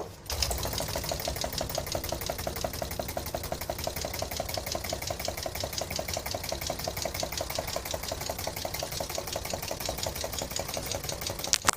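Small model Stirling engine with a propeller running at a steady speed, its moving parts clattering in a rapid, even rhythm of clicks. It ends with a sharp click near the end.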